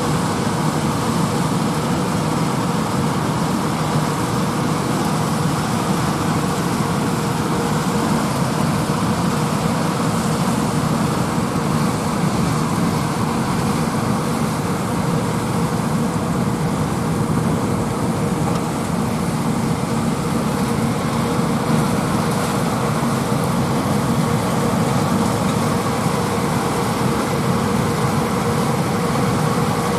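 Steady drone of farm machinery at work, tractors pulling peanut pickers, with a constant hum held at one pitch.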